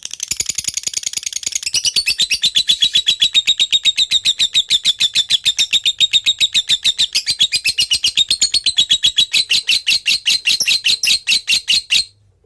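Lovebird singing a long, unbroken, rapid chattering trill in fast even pulses, which stops suddenly near the end.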